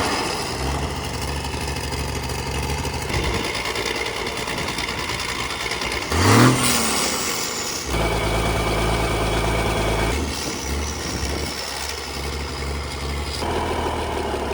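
Rebuilt Cummins 855 inline-six diesel engine running. It is revved up once, briefly, about six seconds in, then settles back to a steady run.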